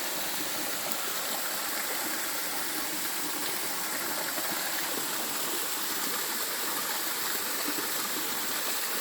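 Small waterfall splashing into a pool, a steady, even rush of falling water.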